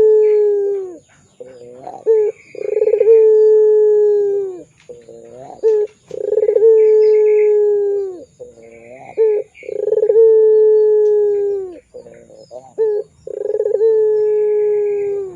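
Puter pelung dove cooing in a repeated pattern. A few short rising notes lead into a long drawn-out coo, held about two seconds at a steady pitch and dropping at the end, and the cycle repeats about every three and a half seconds.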